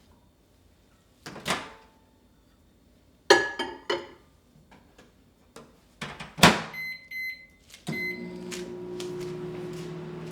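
Microwave oven being used: clicks and a clatter, then a loud bang as the door shuts, a few short keypad beeps, and about eight seconds in the oven starts running with a steady hum.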